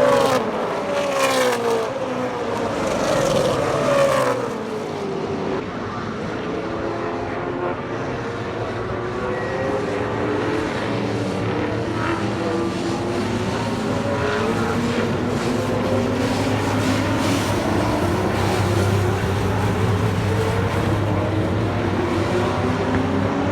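Racing muscle cars' engines at speed. In the first few seconds a car passes and its engine pitch falls, then several engines hold high revs, their pitch slowly rising and wavering.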